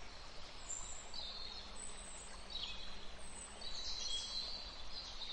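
Faint outdoor ambience with small birds chirping, short thin high-pitched calls scattered throughout.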